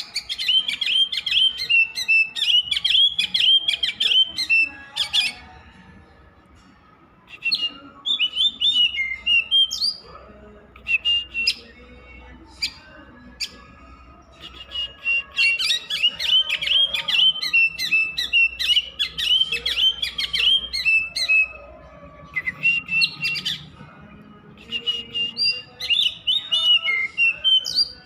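Oriental magpie-robin singing in long phrases of rapid whistled and chattering notes, with brief pauses between the phrases.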